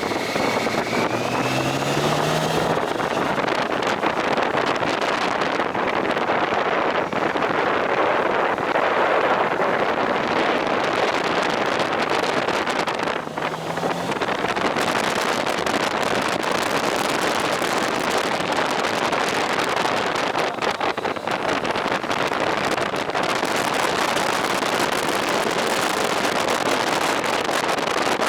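Steady wind rush on the microphone and road noise from a motorcycle on the move, with the engine's note faintly underneath; the noise dips briefly about halfway through.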